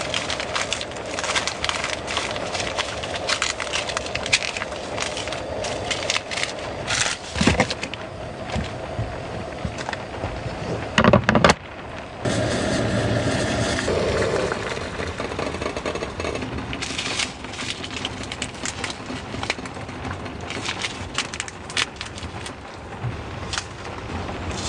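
Rain drumming and dripping on a small car's roof and tarp, with many irregular clicks and knocks, and a loud clatter about eleven seconds in.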